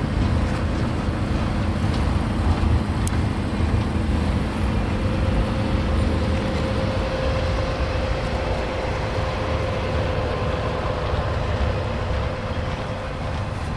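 Train rolling past: a steady rumble of wheels on rail, with a faint steady whine through the middle.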